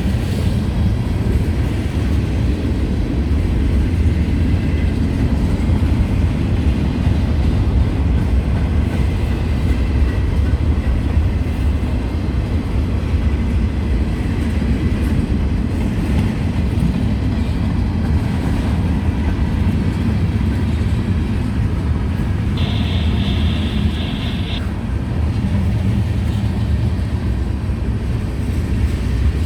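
Long freight train rolling past with a steady heavy rumble of cars on the rails. A high-pitched tone sounds for about two seconds near the end.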